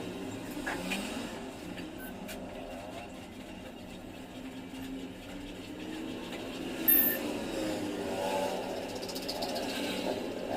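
Motor vehicle engines running past, their pitch rising and falling, with a few sharp clicks in between.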